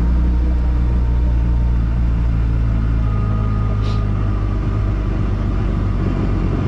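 Kawasaki Ultra 310 jet ski's supercharged four-cylinder engine idling steadily.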